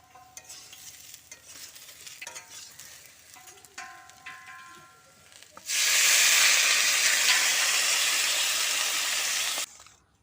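A spatula stirring and scraping fried potatoes and soybean chunks in a hot pan, then about halfway through a sudden loud sizzling hiss for about four seconds as water goes into the hot oil, which cuts off abruptly.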